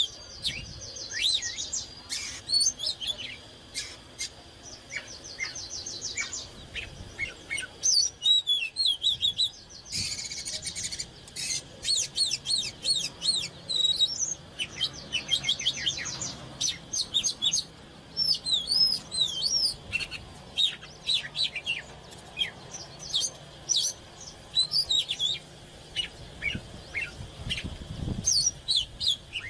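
Oriental magpie-robin singing a long, varied song of clear whistled notes and slurs, broken several times by fast rattling trills.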